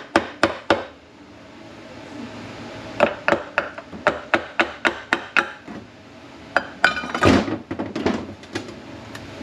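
Hammer tapping on a part of a Mercedes 722.9 automatic transmission during teardown, in quick even strikes about three or four a second. The strikes come in two runs, followed by scattered clinks of metal parts and a louder clatter about seven seconds in.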